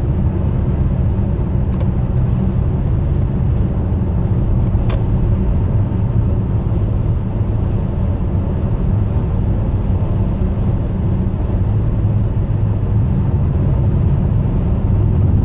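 Steady road and wind noise inside the cabin of a 2014 Toyota Highlander Limited Platinum at freeway speed: a low rumble with wind hiss above it, growing with speed.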